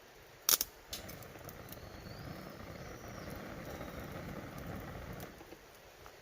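Wood campfire burning: a sharp pop of firewood about half a second in, the loudest sound, a smaller pop about a second in, then a steady crackling hiss of the fire for several seconds that eases off near the end.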